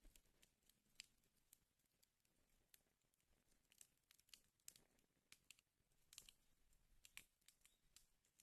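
Wood fire burning in a fireplace, crackling faintly with irregular sharp snaps and pops.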